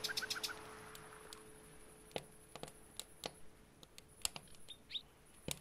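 Faint campfire crackling: sparse, irregular snaps and pops. A bird chirps briefly at the start and once more near the end.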